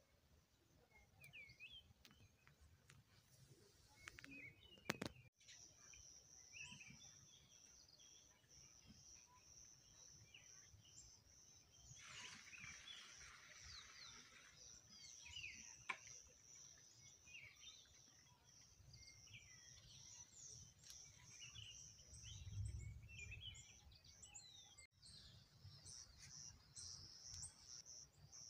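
Faint outdoor birdsong: small birds chirping in scattered short calls. About five seconds in, a steady high-pitched trill joins them and keeps going, becoming pulsing near the end.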